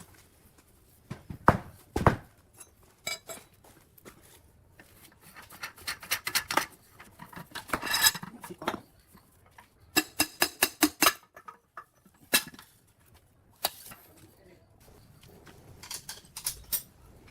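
Metal tools and parts clinking and knocking against each other, in scattered clusters of sharp clicks, with a quick run of about ten clicks in a row around the middle.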